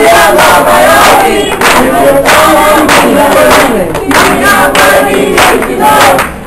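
A crowd of people shouting and chanting together loudly, many voices at once, with a short break near the end.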